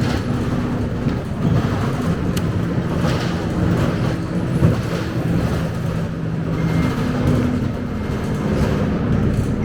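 Inside a Scania K270UB single-decker bus on the move: the engine drones steadily and its pitch shifts now and then, with cabin rattles and a sharp knock about halfway through.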